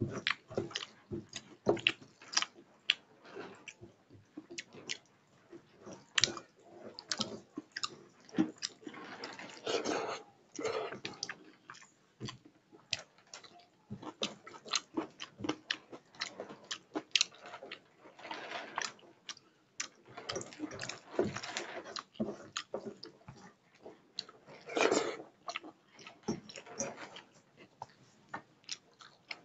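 Close-up chewing and lip-smacking of a person eating rice and curry by hand: a steady run of short, wet mouth clicks, with a few longer, louder stretches.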